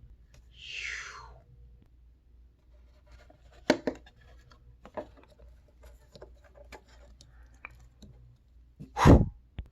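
A breathy, mouth-made whoosh falling in pitch, then small handling noises of toy props: faint scratches and clicks, with a louder thud near the end.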